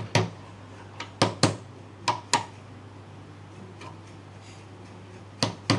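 A mallet or hammer striking wood in hand joinery work, several sharp knocks in irregular pairs with pauses between.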